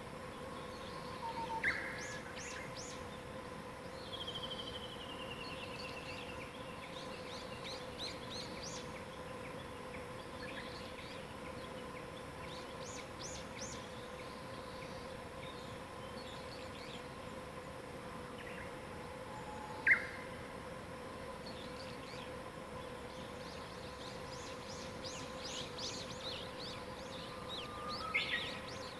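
Several wild birds singing and calling with many short high chirps, a falling trill about four seconds in, and a sharp loud call about twenty seconds in. Under it runs a steady faint hum.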